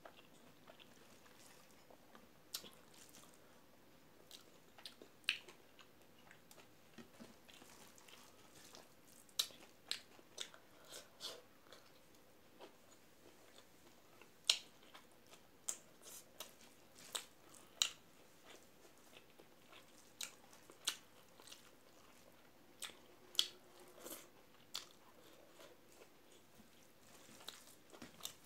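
Close-up eating sounds: a woman chewing a mouthful of rice and potato curry eaten by hand, with many short, irregular mouth smacks and clicks.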